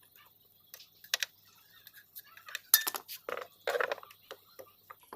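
Metal tools and engine parts clinking and knocking as they are handled, in irregular single strikes, the sharpest about halfway through.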